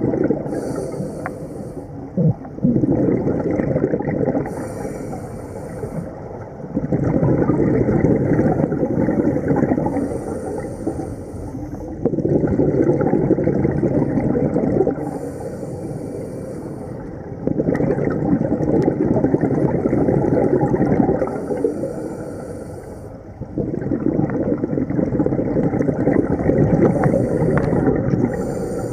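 Scuba diver breathing through a regulator underwater: a short hiss of each inhalation, then a long, low rumble of exhaled bubbles, about six breaths, one every five seconds or so.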